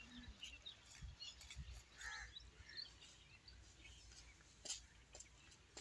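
Faint outdoor background with scattered small bird chirps and a few light clicks, one slightly louder call about two seconds in.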